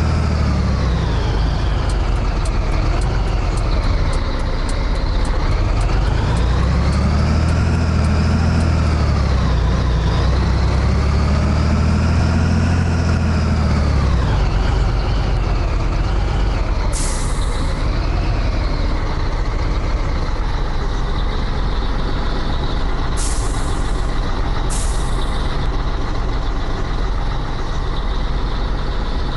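Scania 113H truck's six-cylinder diesel engine running under load, its pitch rising and dropping repeatedly through the first half as it works through the gears, then running steadier. Three short hisses of released compressed air come in the second half.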